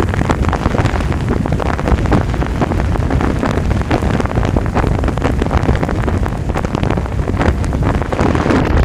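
Strong wind buffeting the microphone: a loud, continuous rumble with dense crackling.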